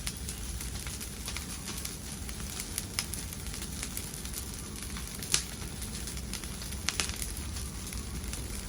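Wood fire burning in a fireplace: a steady low rumble and hiss with scattered sharp crackles and pops, the loudest pop a little past five seconds in.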